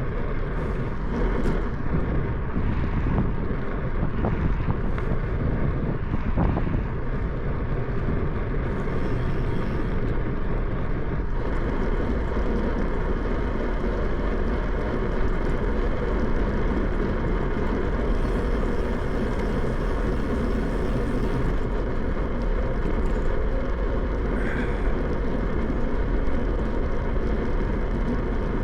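Steady rush of wind and tyre noise from a bicycle ride, recorded on the moving bike, with a few faint clicks in the first seconds.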